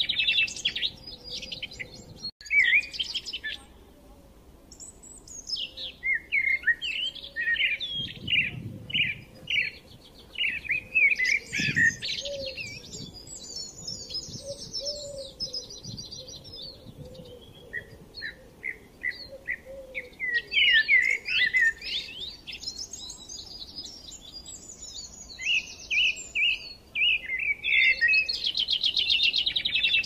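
Birds chirping and trilling in quick, high calls that come in clusters, with brief lulls between them.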